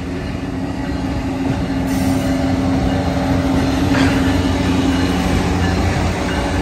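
Richmond Pacific Railroad diesel locomotive running steadily as it passes close by, growing louder to a peak about four seconds in, then the freight cars behind it rolling past on the rails.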